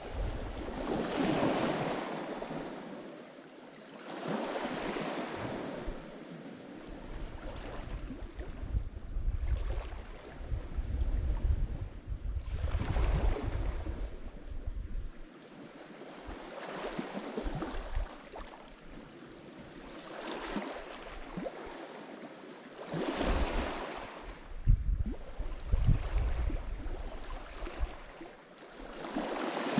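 Lake Michigan waves breaking on the shore, each one swelling and washing back every three to four seconds, with a few sharper splashes near the end. Wind rumbles on the microphone at times.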